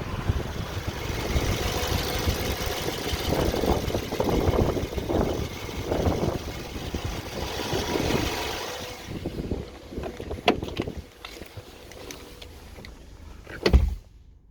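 BMW 318i's N43 four-cylinder petrol engine running, under a heavy rush of wind and road noise for the first two-thirds, which then quietens. A single loud thump comes near the end.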